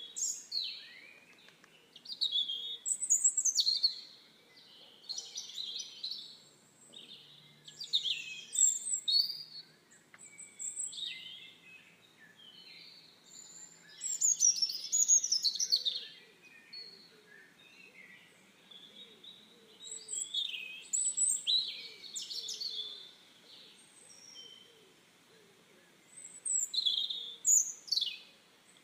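Songbirds singing: bursts of quick, high chirps and whistled notes, coming in phrases every few seconds with short lulls between.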